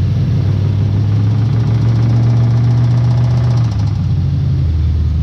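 A small-block Chevy V8 runs with a slight tick. It rises a little above idle about a second and a half in and settles back near the end. The owner takes the tick for a knock from a bad rod bearing, with grey, glittery metal in the oil.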